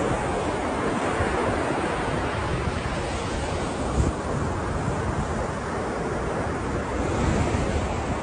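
Ocean surf: a continuous wash of waves breaking, with a brief louder surge about four seconds in.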